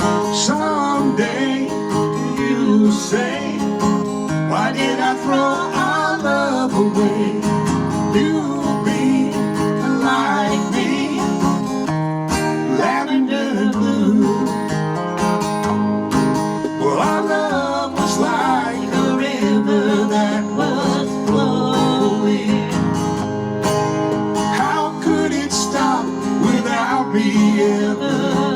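Live acoustic guitar music, strummed and picked, with a sung melody over it.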